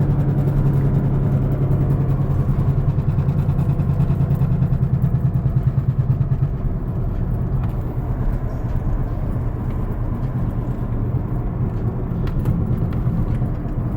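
Worn front wheel bearing on an Infiniti G35 droning with a fast, pulsing beat as the car takes a turn, over road and engine noise. The pulsing eases about six and a half seconds in.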